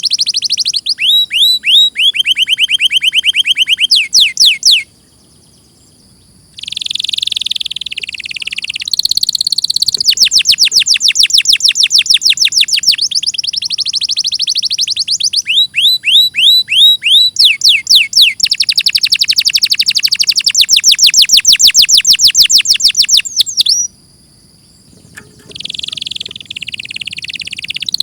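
Domestic canary singing: fast trills of rapidly repeated high notes, the phrase changing pitch and speed every few seconds. The song breaks off twice, about five seconds in and again near the end, for a second or two before starting again.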